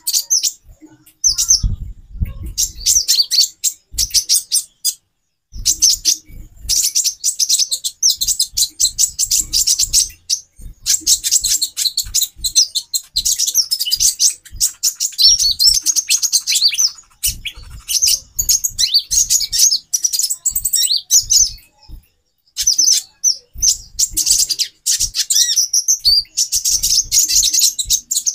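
Female konin sunbirds (kolibri ninja) chirping rapidly and busily in long bursts of high, quick notes, with brief pauses; faint low thumps come through between the notes.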